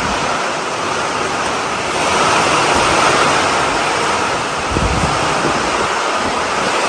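Wood-Mizer LX55 band sawmill running, its blade cutting through a poplar log with a steady, loud, noisy whir.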